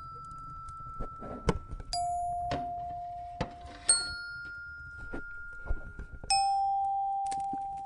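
Slow, widely spaced bell-like chime notes, struck one at a time about every two seconds and each ringing out as it fades, alternating between a lower and a higher pitch. Under them a fireplace crackles, with scattered sharp pops.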